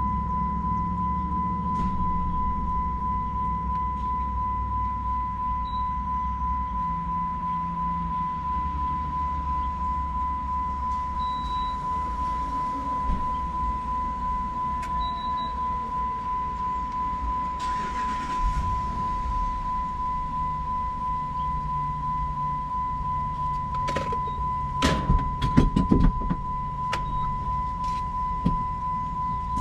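A steady high-pitched electronic tone over the low rumble of a vehicle at a gas pump, with a few short high beeps and a cluster of clicks and knocks near the end.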